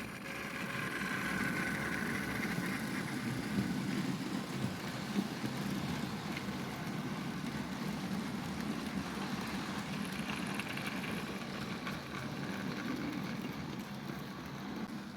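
Model railway freight train, a Bachmann BR Class 47 model diesel hauling a long rake of goods wagons, rolling past with a steady rumble of wheels on the track and its small electric motor humming.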